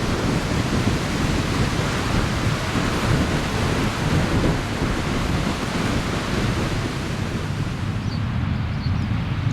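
Wind buffeting the microphone: a steady low rumble with hiss over it and no distinct events.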